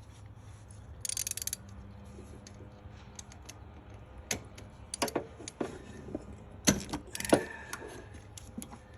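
Socket wrench on long extensions clinking and clicking against metal while being worked into a spark plug well: a brief fast run of clicks about a second in, then scattered sharp metallic clicks and knocks, over a steady low hum.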